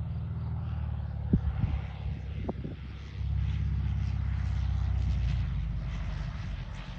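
Cessna 172RG's single piston engine and propeller droning steadily. A few short knocks come between one and three seconds in, and the drone grows louder and deeper from about three seconds in.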